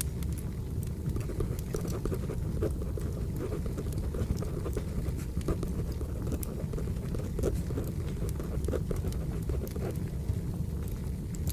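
Wood fire burning with a steady low rumble and scattered sharp crackles and pops, with pencil scratching on paper laid over it.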